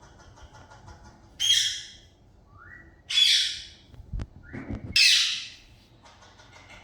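Pet budgie giving three loud, harsh squawks about a second and a half apart, each about half a second long, between bouts of soft warbling chatter. Two dull low knocks come about four seconds in.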